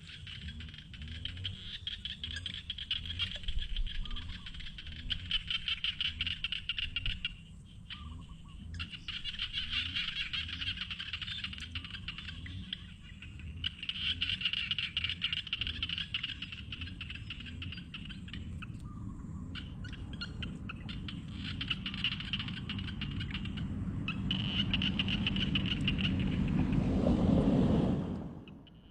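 A dense chorus of calling frogs and insects: a rapid pulsing buzz with a few short breaks, over a lower call repeating at a steady rhythm. Near the end a louder noise swells up and cuts off suddenly.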